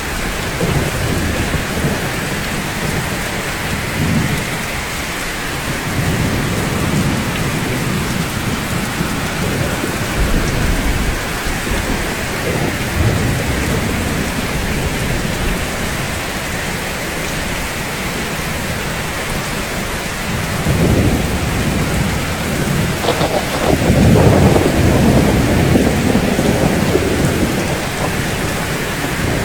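Steady heavy rain falling on roofs, with low rolling rumbles of thunder swelling and fading; the loudest rumble comes about three-quarters of the way through.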